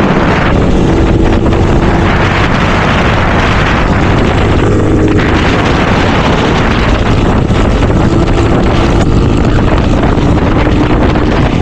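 Motorcycle engine running steadily under way, with heavy wind noise buffeting the microphone.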